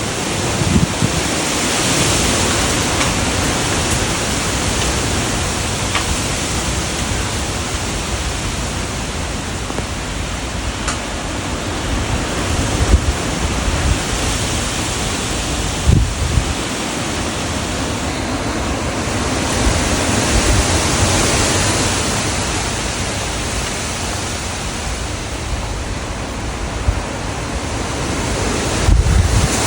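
Strong wind in gusts, a steady rushing hiss that swells and eases, with wind buffeting the microphone now and then in low thuds.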